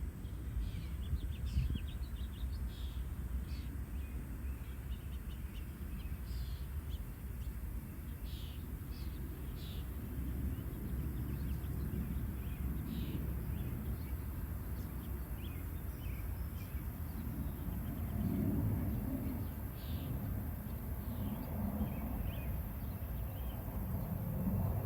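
Birds chirping now and then in short high calls over a steady low outdoor rumble, with some louder low rumbling in the second half.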